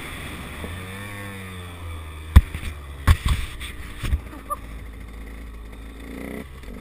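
KTM 125 EXC two-stroke enduro bike's engine running under throttle, its pitch rising and falling in the first couple of seconds. A few sharp thumps come between about two and four seconds in, the first one the loudest.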